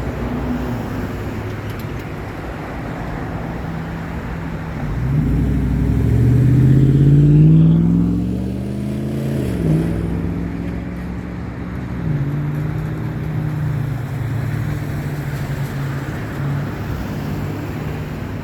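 Roadway traffic noise, with a vehicle accelerating past: its engine climbs in pitch and grows loud about five seconds in, drops in pitch briefly at a gear change, then climbs again.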